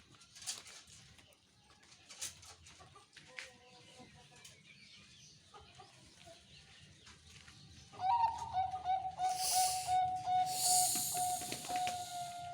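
Zebra dove (perkutut) cooing. Faint scattered calls come first, then about eight seconds in a long coo starts, stuttering rapidly on one steady pitch to the end, with bursts of hiss over it.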